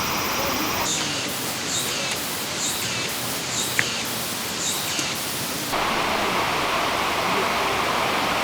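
Mountain stream water rushing steadily over rocks, with the sound changing abruptly twice as the shot changes. Faint high chirps come about once a second in the middle part.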